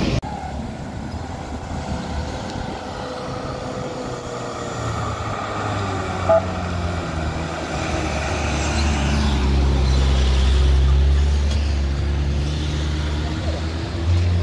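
A heavy truck's engine running under load, its deep rumble growing louder from about a third of the way in and loudest about two-thirds through. A brief sharp sound comes near the middle.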